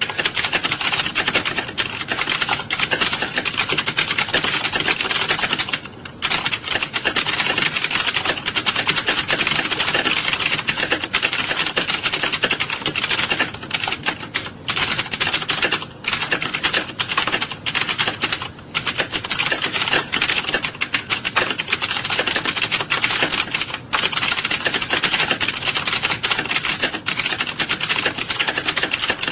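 Many people typing at once in a typing class: a dense, continuous clatter of keystrokes, with a few brief lulls.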